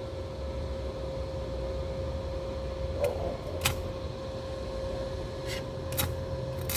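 A steady machine hum with a thin constant tone, broken by a few light clicks.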